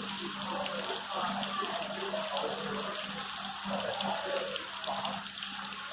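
Simulated rain shower in an indoor rainforest exhibit: water falling steadily, over a constant low hum and faint background voices.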